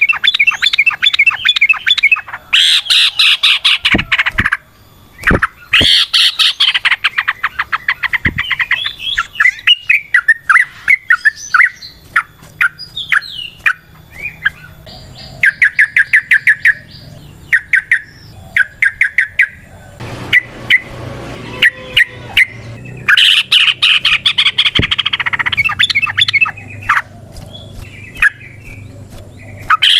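Yellow-vented bulbul singing its long, rapid bubbling song: phrases of quick repeated notes, each lasting a few seconds, with short pauses between.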